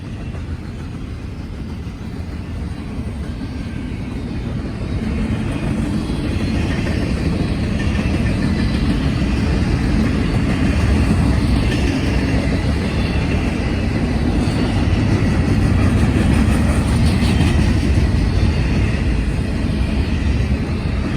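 Long freight train passing at speed: a steady rumble of its cars' wheels on the rails, growing louder over the first five or six seconds and then holding.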